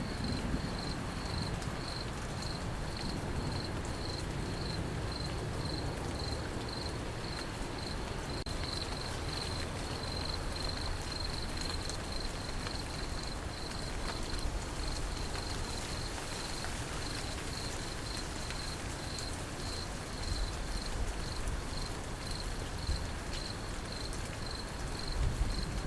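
Crickets chirping in a steady rhythm of high, even chirps, a few a second, over steady rain.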